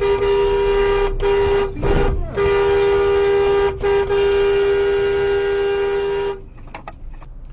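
Car horn honking in long held blasts with a few short breaks, stopping about six seconds in: a driver warning a truck that is reversing into the car.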